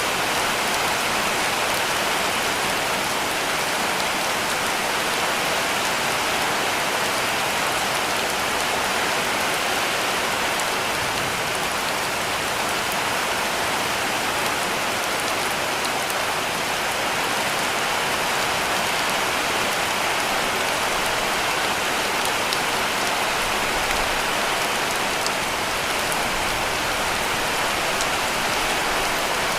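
Heavy rain falling steadily on a roof, a dense even hiss with faint scattered drop ticks.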